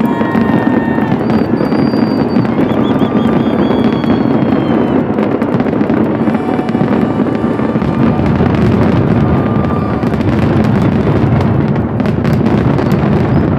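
Fireworks going off in a dense, continuous barrage: rapid overlapping bangs and crackling with no break.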